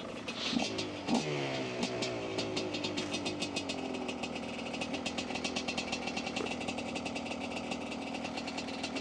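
Two-stroke dirt bike engine idling at a standstill, blipped twice in the first second or so before the revs fall back to a steady idle.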